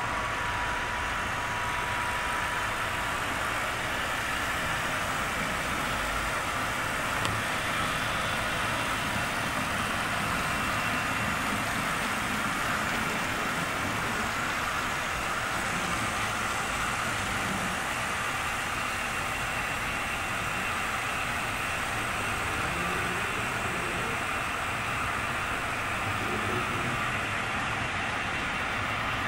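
HO scale model train running around a layout: a steady hum and whir of its motor and wheels on the track.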